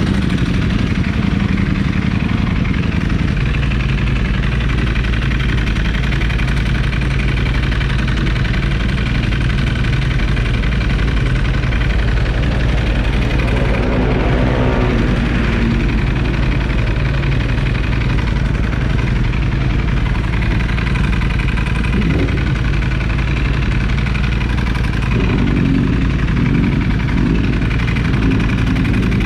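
Big superbike's engine running steadily at low revs, close to the microphone, with a short rise and fall in pitch about halfway through.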